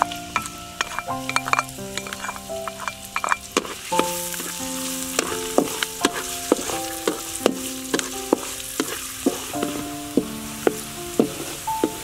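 Sliced red onion sizzling in hot oil in a wok, stirred with a spatula that gives short scraping clicks, over background music.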